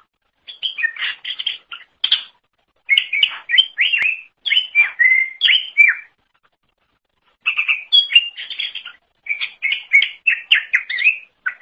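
A cucak ijo (green leafbird) in full song: quick runs of chirps and sliding whistles, delivered in phrases broken by short pauses.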